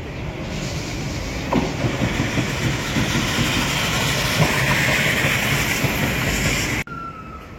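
A train running past: a loud rushing noise that builds over several seconds, with a few sharp knocks from the wheels, then cuts off suddenly near the end.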